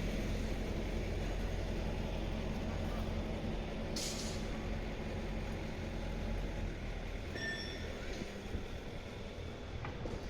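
Train running with a steady low rumble that eases after about seven seconds, a short hiss of air about four seconds in, and a brief high squeal near eight seconds.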